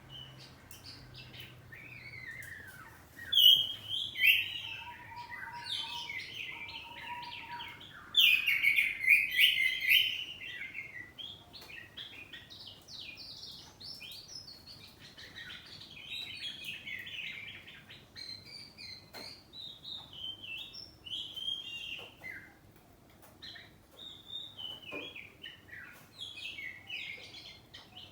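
Oriental magpie-robin (kacer poci) singing a long, varied song of whistled phrases and chirps, with loud bursts about three and eight seconds in.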